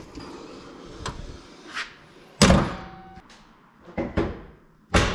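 A series of knocks and thuds, the loudest about two and a half seconds in and another strong one near the end.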